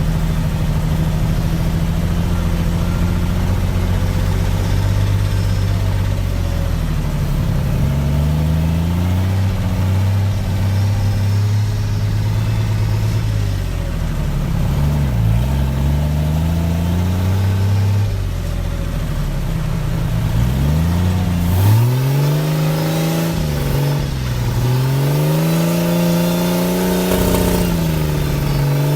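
Off-road 4x4's engine running at a steady speed, then revving up and down repeatedly in the last third.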